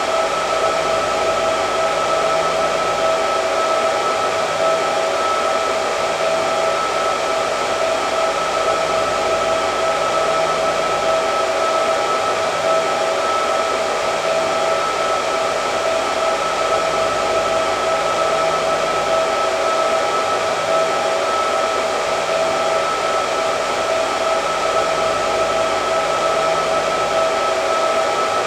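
Hair dryer running continuously: a steady rush of blown air with a constant whine from the motor and fan.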